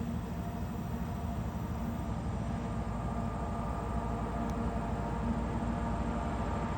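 Diesel locomotives of an approaching freight train working upgrade, a steady low rumble with a faint engine drone, slowly growing louder.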